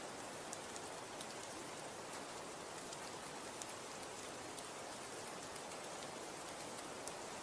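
Snow falling and pattering on a surface: a steady soft hiss with scattered faint ticks.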